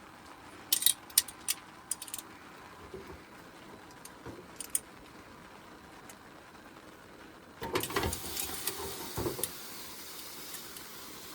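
Metal cooking utensils clinking against a pan on a camp stove, a few sharp clicks in the first couple of seconds. Later there is a louder clatter and scraping, and a steady hiss carries on after it.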